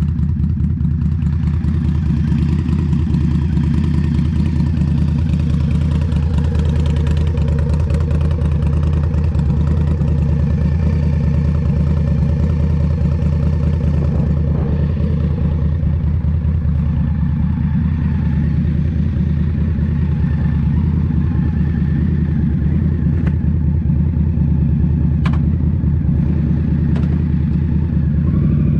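Indian Scout Rogue's 69 cu in V-twin engine running through a Rinehart slip-on exhaust, its note holding steady without large changes in engine speed. One short sharp click sounds near the end.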